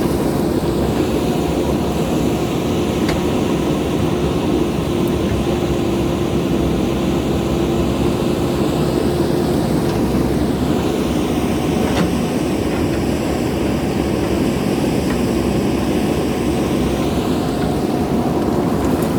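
JCB backhoe loader's diesel engine running steadily under work, a constant hum without letting up.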